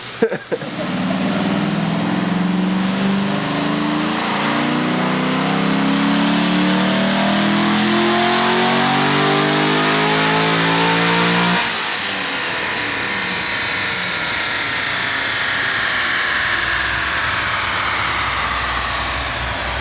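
Heads-and-cam C6 Corvette V8 making a full-throttle dyno pull, its note rising steadily for about eleven seconds. The throttle then closes abruptly, and the engine and dyno rollers wind down with a falling whine.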